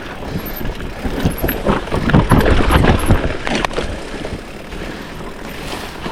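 Mountain bike rattling and clattering over a rocky trail, with irregular knocks from the wheels and frame, loudest about two to three seconds in, over wind noise on the microphone.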